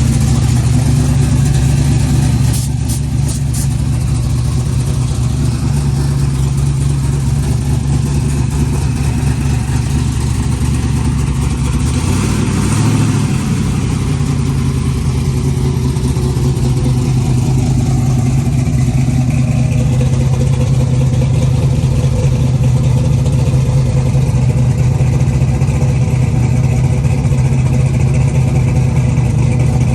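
6.2-litre LS V8 with a full exhaust idling at a steady pitch, with a brief swell in the sound about twelve seconds in.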